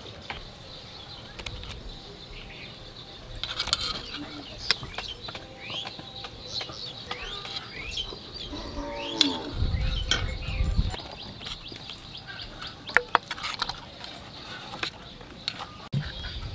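Birds chirping with short, quick calls, over a steady high hiss, with scattered light clicks and a brief low rumble about ten seconds in.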